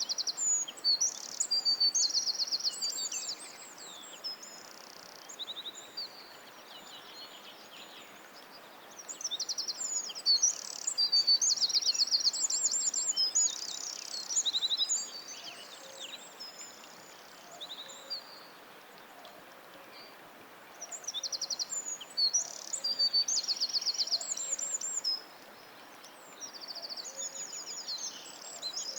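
Songbirds singing: bouts of high, rapid trills and whistled phrases a few seconds long, with pauses of several seconds between them, over a faint steady hiss.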